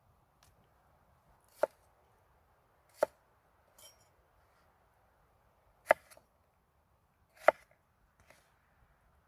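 A knife chopping vegetables on a cutting board: four sharp, separate chops, spaced irregularly one to three seconds apart, with a few faint clicks between.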